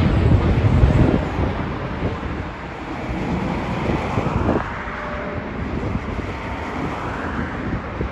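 Jet airliner's engine rumble dying away about a second in, leaving a steady lower wash of road traffic and wind noise.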